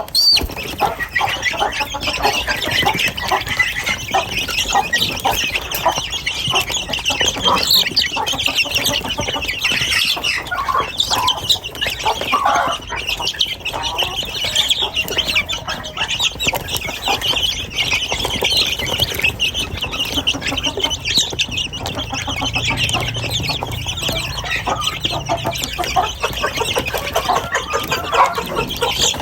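A flock of chickens clucking and calling continuously, many short overlapping calls at a steady level.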